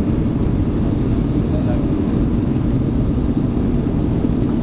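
Jet airliner cabin noise: a steady low rumble of engines and airflow heard from inside the passenger cabin.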